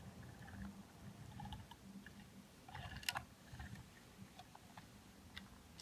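Faint clicks and taps of small plastic toy figures and a toy trolley being handled, with one sharper click about three seconds in.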